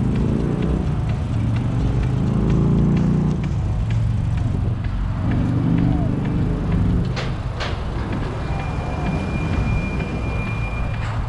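Highway traffic: motor vehicles passing, with engine noise rising and falling over a steady low rumble. There are two sharp clicks near the middle and a thin high steady whine near the end.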